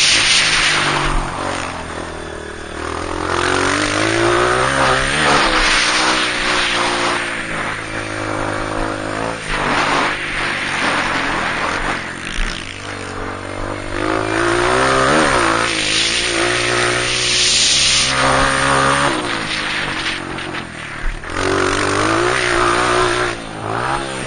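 Honda CRF230 dirt bike's single-cylinder four-stroke engine revving hard. The pitch climbs, drops and climbs again as the bike is ridden around the motocross track.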